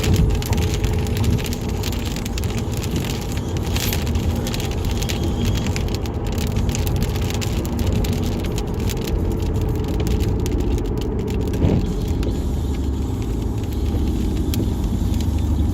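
Car interior while driving: steady engine and road rumble, with many irregular sharp ticks of rain striking the car.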